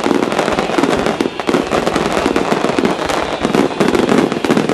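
Aerial fireworks shells bursting in a dense, continuous barrage of bangs and rapid crackling pops.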